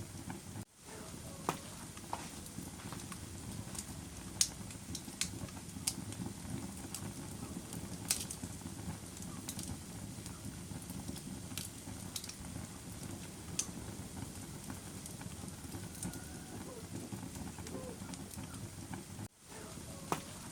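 Wood fire burning in a fireplace: a steady low rush of flames with scattered sharp crackles and pops, the strongest about four and a half and eight seconds in. The sound cuts out briefly twice, under a second in and near the end.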